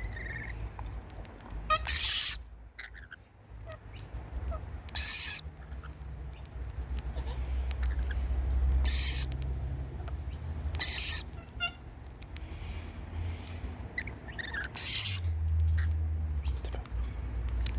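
A bird gives five short, harsh, high-pitched screech calls, each under half a second, spaced a few seconds apart, over a faint low rumble.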